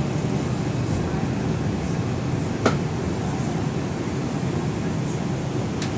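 R142 subway car standing at a station: a steady hum and rush of its ventilation and onboard equipment, with a thin high whine and a single sharp click about two and a half seconds in.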